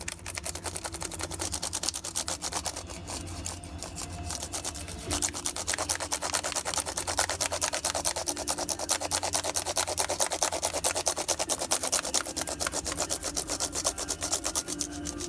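Toothbrush scrubbing the keys of a laptop keyboard in rapid back-and-forth strokes, bristles rasping over the plastic keys; the scrubbing gets louder about five seconds in.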